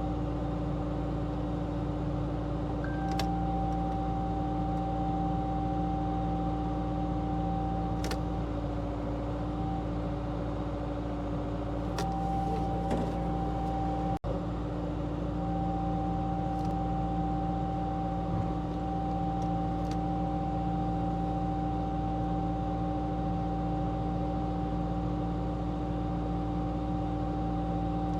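John Deere 120 excavator's diesel engine and hydraulic pump running steadily with a constant whine, with a few faint clicks, while the machine is worked to line up and couple a long-reach attachment.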